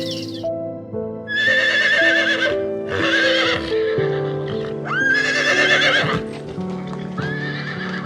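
Horse whinnying four times in a row, each a shaking, wavering call lasting about a second, over soft background music.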